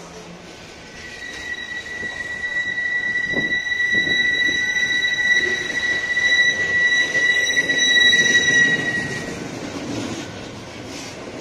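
Freight train of covered hopper wagons rolling past with a steady, high-pitched wheel squeal. The squeal comes in about a second in and dies away after about nine seconds, over the rumble of the wagons, which swells in the middle and eases off near the end.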